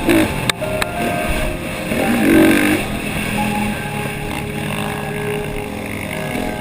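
KTM motocross bike's engine revving up and down as it is ridden, with a sharp rise and fall in pitch about two seconds in, then running lower and steadier.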